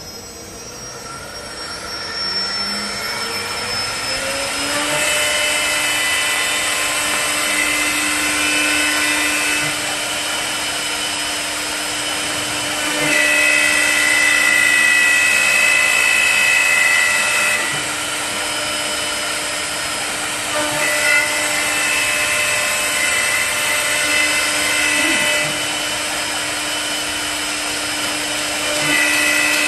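High-speed three-axis wood lathe running: its whine rises over the first five seconds as it spins up, then holds steady. A louder, higher whine comes and goes in stretches of a few seconds.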